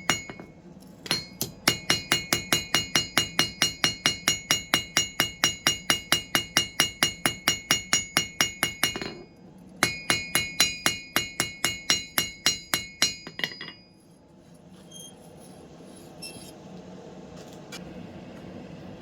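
Blacksmith's hammer striking steel on an anvil in quick, even blows, about four a second, each with a bright metallic ring. The hammering breaks off briefly about nine seconds in, resumes, then stops near fourteen seconds, leaving only faint scattered clinks.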